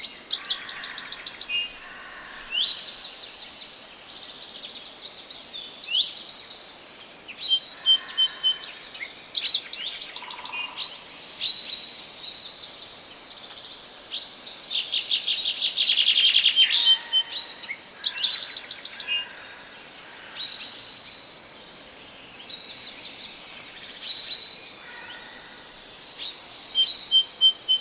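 Several songbirds singing together in a forest, with overlapping trills, chirps and short whistled notes. The singing is busiest about halfway through.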